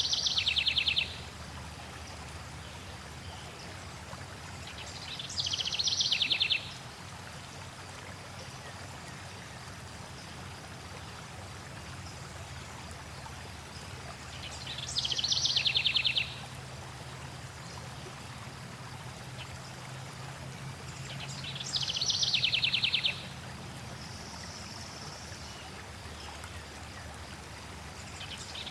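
Stream water flowing steadily, while a songbird sings the same short, high song four times, each song ending in a rapid trill.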